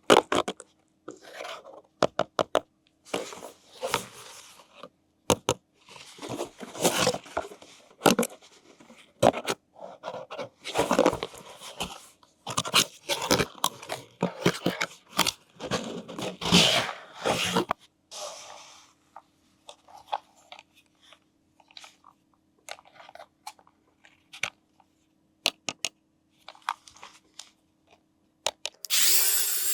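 Toy packaging being handled and opened: plastic crinkling and tearing in irregular bursts, with many sharp clicks. The last third is quieter, mostly scattered clicks.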